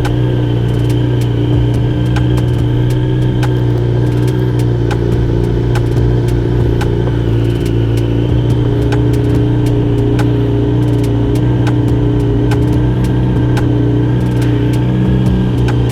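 Sport motorcycle engine idling steadily at an even pitch, with scattered light clicks over the hum.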